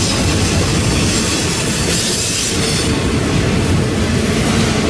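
Freight train of autorack cars rolling past at close range: a loud, steady rumble and rattle of steel wheels on the rails.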